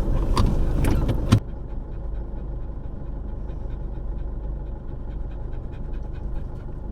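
A vehicle door shuts with a sharp knock about a second in, cutting off the outside noise. After that there is a steady low rumble of the parked vehicle, heard from inside the cabin, with faint ticking.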